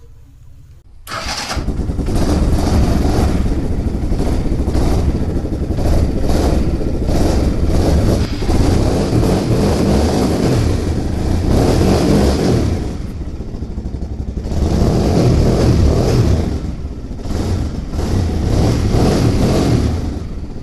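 Italika DM200 motorcycle's single-cylinder engine starting about a second in and running loudly, revved up and let back down several times.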